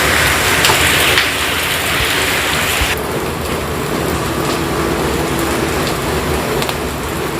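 Heavy rain falling, a loud steady hiss that softens a little about three seconds in.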